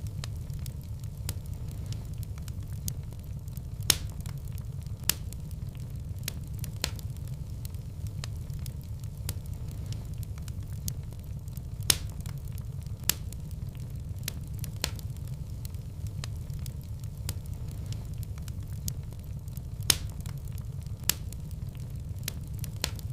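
Wood fire in a fireplace crackling: a steady low rumble of flames with scattered sharp pops and snaps, a few louder pops recurring about every eight seconds.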